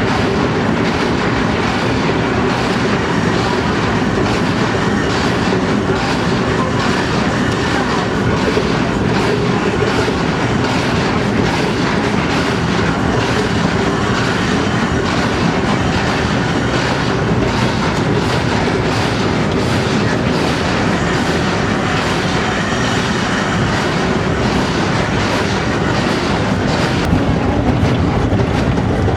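Narrow-gauge mountain railway train running along the track: a steady rumble of wheels on rail with rapid clicking throughout, growing slightly louder near the end.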